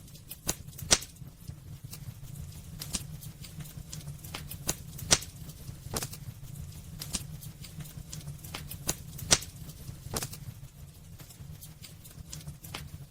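Wood fire burning in a fireplace: irregular crackling and popping over a steady low rumble, with three louder snaps about four seconds apart.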